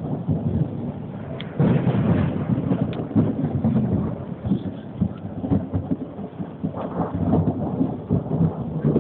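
Thunder rumbling and rolling, with rain. A fresh peal breaks in about one and a half seconds in and rolls on in uneven waves.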